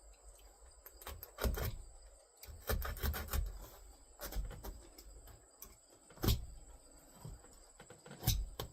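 Staple gun firing into wood: a few sharp snaps, irregularly spaced, with light handling knocks between them.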